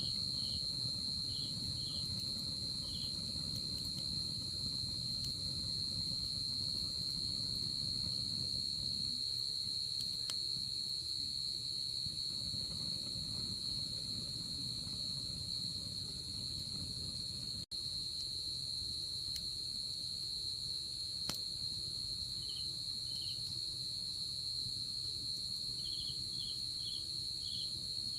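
Night insects calling: one continuous, high, steady trill, with another insect giving short repeated chirps near the start and again near the end. A faint low rumble lies under it with a couple of faint clicks, and the sound cuts out for an instant about two-thirds of the way through.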